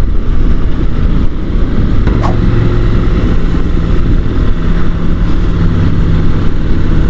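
Honda NC750 DCT's parallel-twin engine running steadily on the move, mixed with heavy wind rush on the helmet microphone; the engine note settles to an even pitch about two seconds in.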